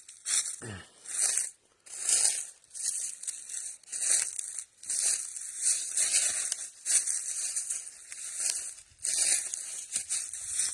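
Footsteps crunching through dry fallen leaves on the woods floor, about one step a second at a steady walking pace.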